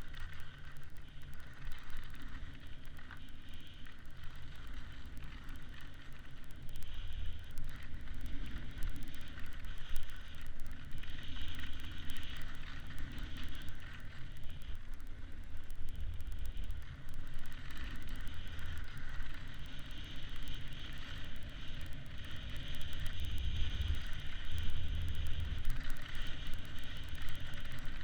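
Wind buffeting the camera microphone: a steady, gusty low rumble with a hiss over it.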